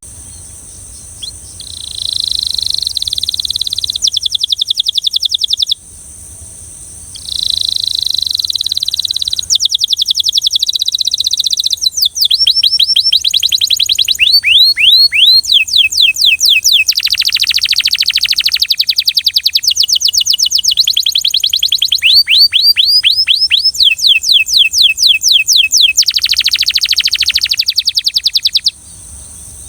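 A Belgian canary singing: a rolled trill starting about two seconds in, a short pause, then a long unbroken run of phrases, with rolled trills and fast repeated falling notes, some dipping lower, ending abruptly near the end.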